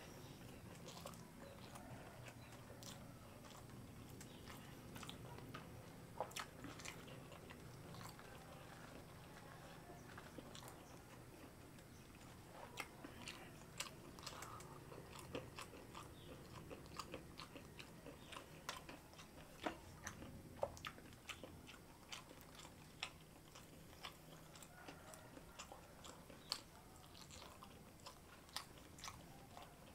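A person chewing and biting mouthfuls of rice and semur jengkol (jengkol stew): quiet wet mouth sounds with many short, sharp clicks.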